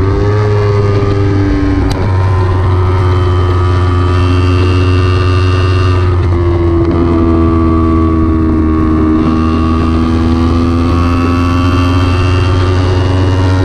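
Kawasaki Ninja 300's parallel-twin engine running hard at high revs on track, its pitch sweeping up and down with throttle and gear changes, with a sharp click about two seconds in and a shift in pitch about halfway through. A steady low rumble runs beneath the engine.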